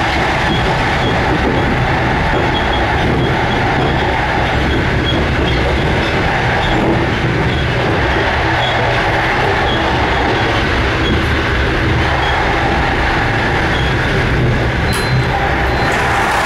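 Loud, steady running noise of a moving passenger train heard at the end of a carriage by the door to the gangway: wheels on the rails and the rattle of the car body.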